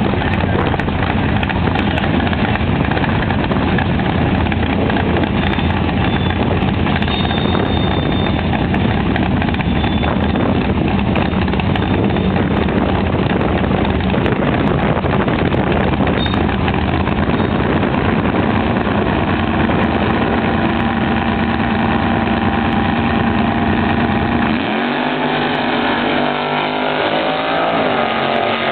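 A 1979 Pontiac Firebird drag car's engine running loud and steady. About 25 s in, the deep low end falls away and the engine pitch starts to glide up and down.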